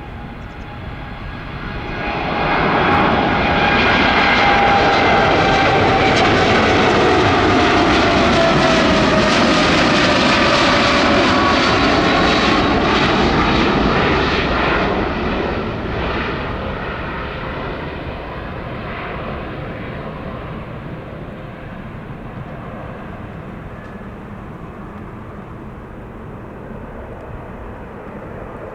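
Boeing 787 Dreamliner jet engines passing close by. The roar builds over the first few seconds and stays loud for about ten seconds, its whine gliding down in pitch, then fades to a distant rumble.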